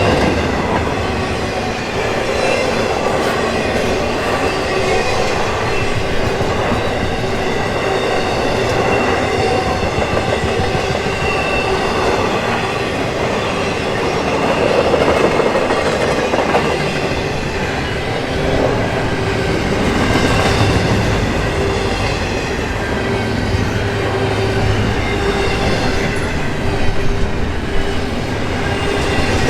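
Intermodal container cars of a freight train rolling past: a steady rumble and clatter of steel wheels on the rails, with thin, steady squealing tones over it.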